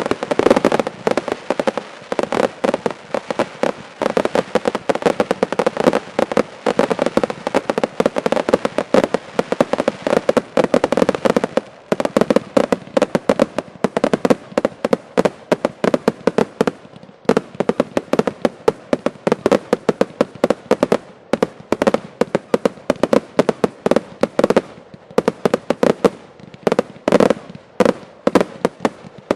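A fireworks display finale: a dense barrage of fireworks going off as rapid sharp bangs, many a second. The barrage thins briefly about halfway through and again near the end.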